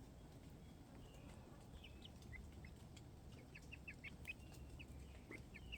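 Faint, short, high chirping calls from chickens, scattered at first, then a quick run of notes about two-thirds of the way in.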